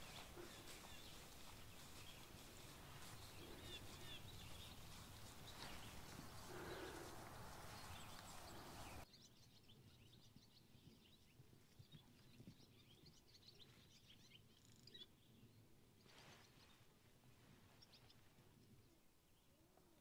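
Quiet open-air ambience with faint, scattered bird chirps. The background hiss drops sharply about nine seconds in.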